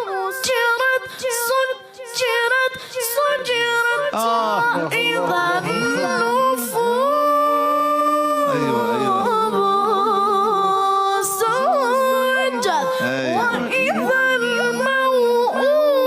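Unaccompanied melodic Quran recitation: a single voice chanting in tajweed style with ornamented, bending lines and a long held note about halfway through.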